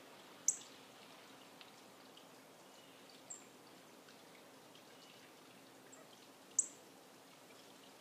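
Small songbirds calling: two sharp, high chips that slide downward, about six seconds apart, with a softer high call between them and a few faint chirps.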